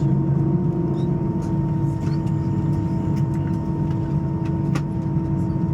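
Steady cabin noise inside an Airbus A320: a constant engine hum with several steady tones over a low rumble, and a few faint clicks.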